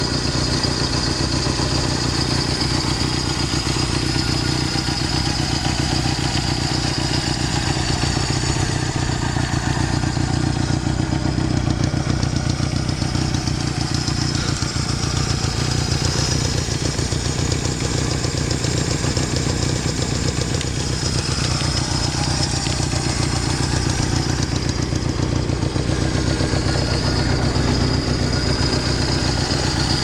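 1964 Honda C92 Benly's 125 cc four-stroke parallel-twin engine running steadily at a constant speed.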